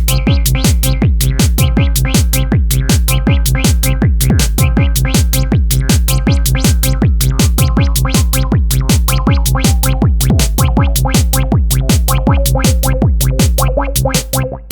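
Techno played on an Elektron Digitone 2 FM synthesizer: a steady drum-machine beat of about four hits a second over a deep bass line and short repeating synth notes. Near the end the bass drops out.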